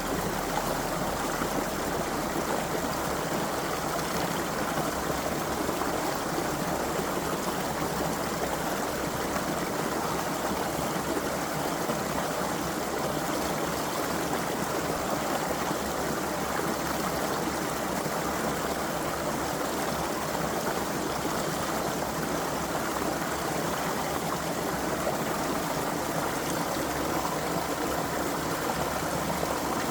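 Creek water flowing and babbling over stones, a steady even rush.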